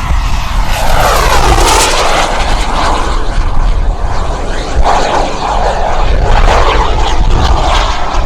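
Radio-controlled model jet flying past, its engine note falling and rising in pitch as it passes. Heavy gusting wind buffets the microphone throughout.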